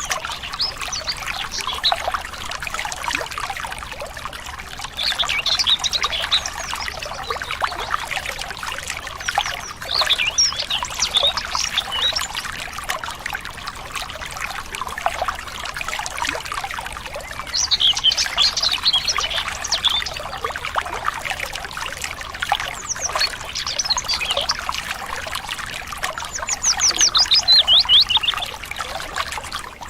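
Water trickling and splashing steadily, like a small stream, with birds chirping several times in quick runs of high notes. The loudest is a fast trill near the end.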